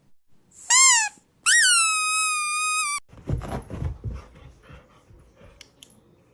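Squeaky toy squeezed twice: a short squeak, then a longer one that rises and holds a steady high pitch before cutting off. Fainter irregular rustling and knocks follow and fade away.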